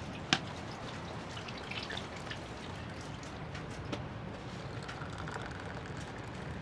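Water dripping and trickling, with a sharp click about a third of a second in and a softer one near four seconds.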